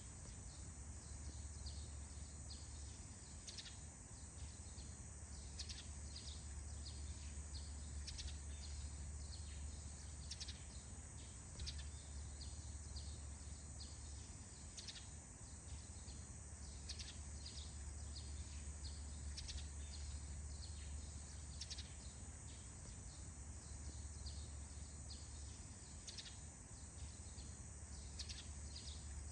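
Faint forest morning ambience: small birds giving short, scattered chirps over a steady high-pitched insect-like hiss and a steady low rumble.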